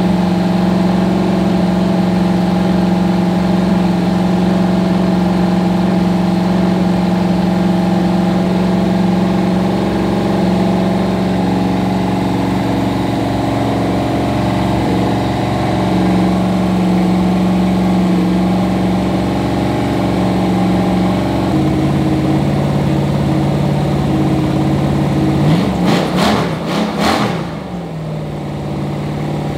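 AMC 390 V8 running on an engine stand at a fast steady speed during a flat-tappet camshaft break-in. About two-thirds of the way through the engine speed drops a step. Near the end the throttle is blipped a few times, revving up and down, before it settles at a lower steady speed.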